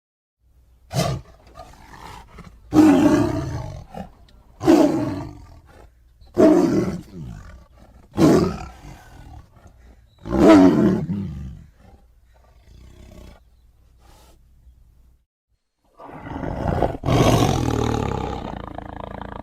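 Big cat roaring: six short roars about two seconds apart, then a longer roar lasting about three seconds near the end.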